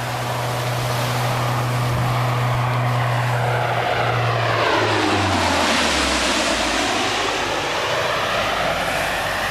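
C-130 Hercules with four turboprop engines flying low past: a steady propeller drone whose pitch drops about five seconds in as it passes, loudest at that moment.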